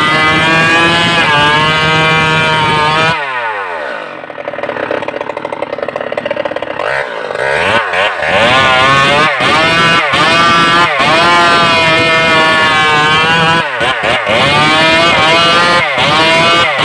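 Stihl MS 381 two-stroke chainsaw running at high revs. About three seconds in the throttle is let off and the engine falls to a low, uneven idle. It is then opened up again and held high, its pitch dipping and recovering several times.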